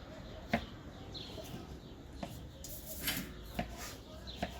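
A folding knife's blade knocking sharply on a cutting board as garlic is chopped, about five separate strokes over four seconds, with faint bird chirps in the background.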